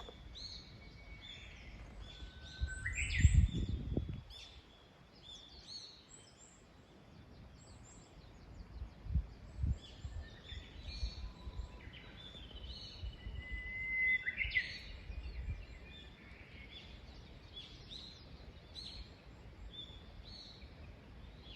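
Small birds calling and chirping outdoors, many short chirps with a few held whistled notes. A low rumble about three seconds in is the loudest sound.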